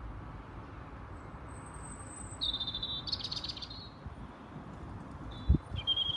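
Birds calling in a dawn chorus: a thin high whistle, then a brighter call with a rapid trill about two and a half seconds in, and another call near the end. A low thump about five and a half seconds in, over a steady low background rumble.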